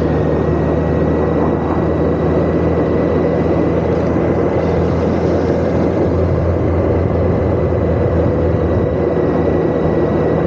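Motorcycle engine running at a steady cruise with constant wind and road rush, recorded while riding.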